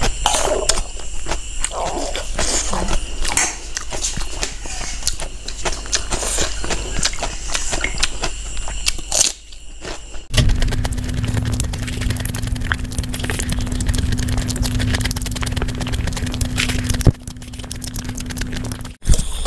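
Close-miked eating sounds of a mouthful of rice and pork rib curry: wet chewing, lip smacks and sticky mouth clicks in quick succession. About ten seconds in the sound changes abruptly, and a steady low hum runs under the chewing until about seventeen seconds.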